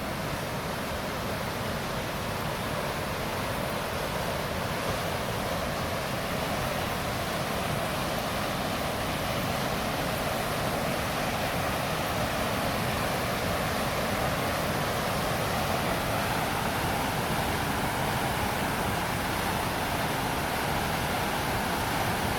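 Floodwater of a river swollen by heavy rain, rushing past in a steady, continuous roar of water.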